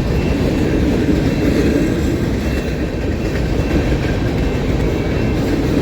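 Freight train rolling past at close range, a loud steady rumble of cars and wheels on the rails.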